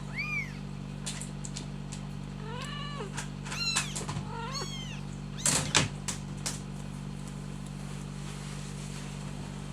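Young kittens mewing: a cluster of short, high squeaks that rise and fall in pitch, mostly in the first half, with a brief louder knock-like noise a little past the middle. A steady low hum sits underneath.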